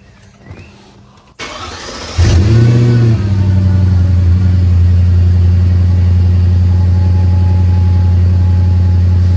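Mercedes E55 AMG's supercharged 5.4-litre V8 (M113K) being started: the starter cranks briefly about a second and a half in, the engine catches with a short flare of revs, then settles into a steady idle.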